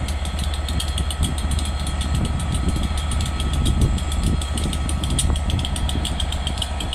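Class 67 diesel locomotive 67005 idling at a standstill: its V12 two-stroke diesel engine gives a steady low hum with a fast, even pulse.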